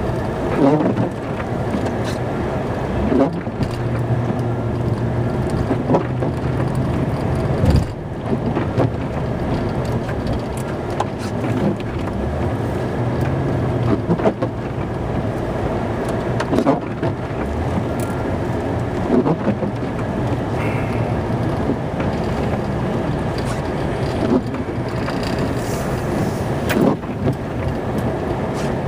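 Snow plow truck's engine running inside the cab as it works, its drone rising and easing with the throttle. Occasional sharp knocks and clunks are scattered through it.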